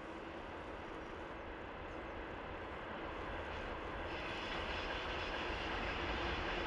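Freight train hauled by 2ES4K electric locomotives approaching. Its steady rumble grows louder and turns brighter from about four seconds in.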